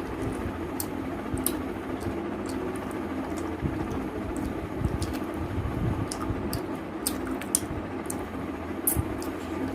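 Person chewing and smacking mouthfuls of rice and chicken curry, with many short wet clicks scattered irregularly, over a steady low background hum.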